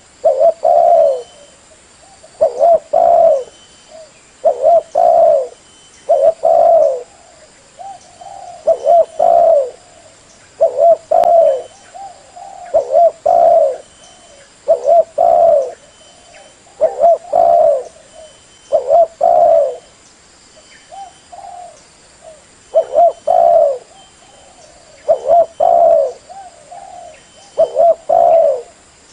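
Female spotted dove cooing: short coos in pairs, repeating about every two seconds. It is a lure call used to stir up wild spotted doves for trapping.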